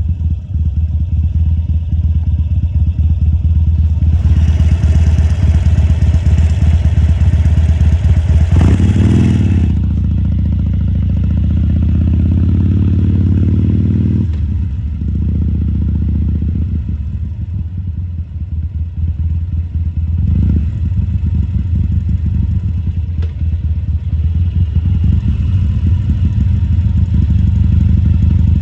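2014 Harley-Davidson Sportster XL1200C's air-cooled 1200 cc V-twin running, its note rising and falling as the bike is ridden slowly. A loud hiss sits over it from about four to ten seconds in, with a brief rise and fall in engine pitch near nine seconds.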